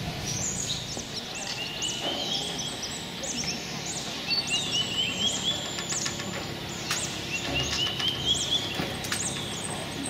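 Wild birds singing: many short high chirps, and a rising run of notes that repeats about every three seconds.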